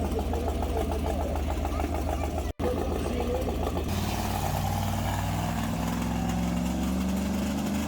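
A large vehicle engine running with a rapid, even pulse, then from about four seconds in its pitch rises steadily as it revs up. The sound cuts out for an instant about two and a half seconds in.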